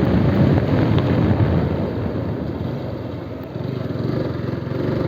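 Motorcycle engine running on the move, easing off about three seconds in and then building again.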